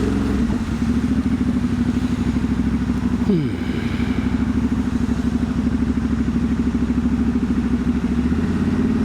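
Ducati Monster's L-twin engine running under way, with a fast, even pulsing beat. About three seconds in, the revs drop sharply, then hold steady.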